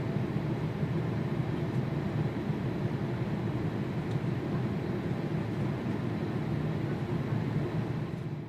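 Steady low rumble of jet airliner engines, fading in and out at the edges of the clip.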